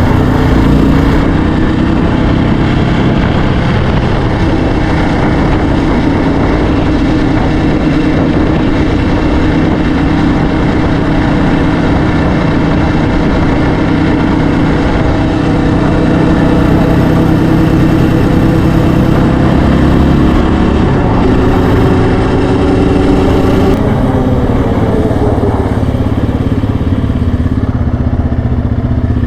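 Yamaha Raptor 700R ATV's single-cylinder four-stroke engine running steadily under way, its pitch dropping about three-quarters of the way through as it slows.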